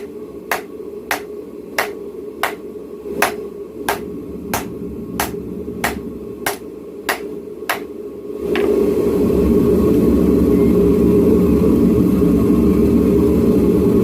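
Hammer blows forging a knife blank, struck at an even pace of about three every two seconds over a steady machine hum. About eight and a half seconds in, the hammering stops and a louder, steady rushing hum takes over.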